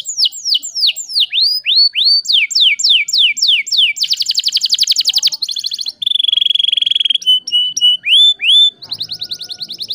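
Domestic canary singing a fast trilled song: runs of rapid repeated downward-sweeping notes that switch to new phrases every second or so, with a buzzy rolling trill in the middle.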